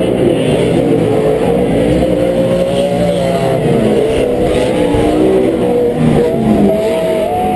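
Several Pro 4 short-course off-road race trucks running at racing speed, their V8 engines revving up and down as they accelerate and lift, heard as several overlapping engine notes rising and falling.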